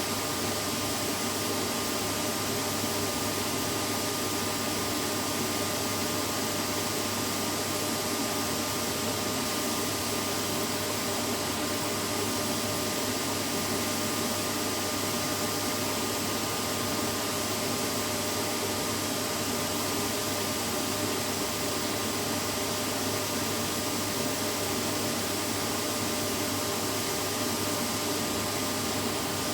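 Vacuum cleaner running steadily: an even, unchanging hiss with a faint motor hum and whine, played as soothing white noise for babies.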